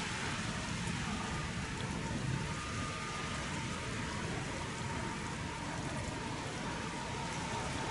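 Distant jet airliner engines, a steady rushing noise with a faint whine that grows slightly stronger near the end.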